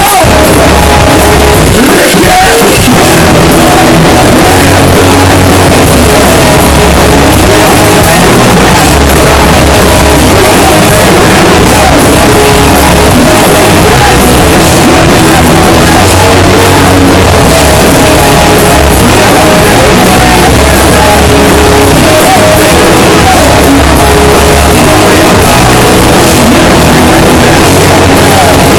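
Rock band playing loud and dense, with heavy bass, recorded so hot that it is distorted and harsh.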